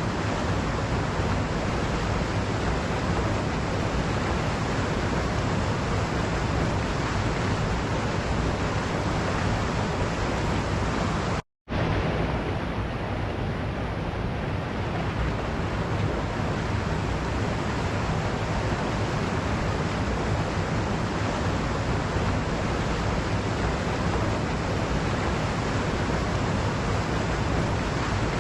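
Waterfall: a steady rush of falling water, with an abrupt split-second cut to silence about eleven seconds in.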